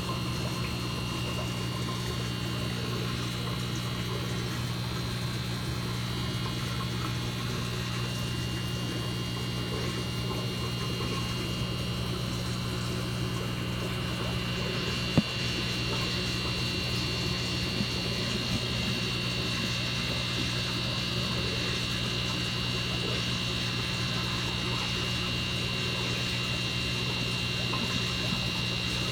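Steady electrical hum and water noise of an aquarium's running pump, with a faint high whine over it. A single sharp click about halfway through.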